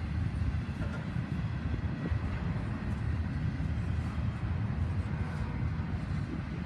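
CSX intermodal freight train's container cars rolling past: a steady low rumble of steel wheels on the rails.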